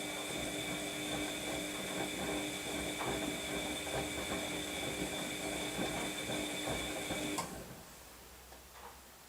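Washing machine motor running with a steady whine as the drum turns, then cutting off suddenly about seven seconds in.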